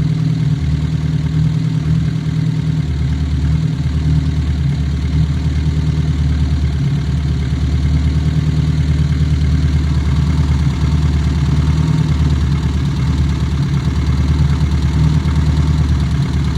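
Classic Austin Mini Cooper's four-cylinder A-series engine idling steadily while it is being tuned at the distributor and fuel.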